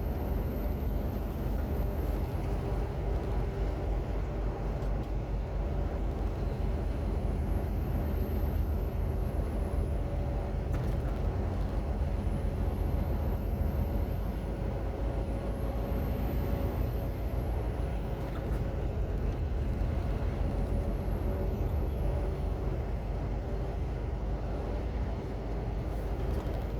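Tractor unit's diesel engine running steadily with road rumble as the container truck drives along. A faint high whine rises and falls several times over it.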